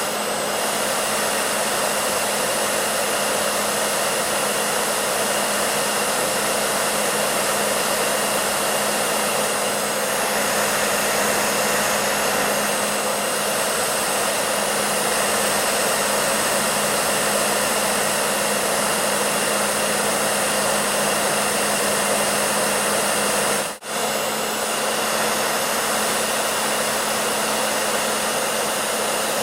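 A hair dryer running continuously, a steady rush of air over a constant hum. The sound cuts out for an instant about 24 seconds in, then carries on unchanged.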